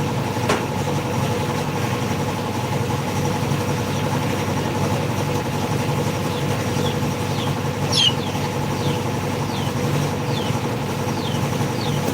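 A machine runs steadily with an engine-like hum. There is a click about half a second in, and a run of short, high, falling squeaks through the second half.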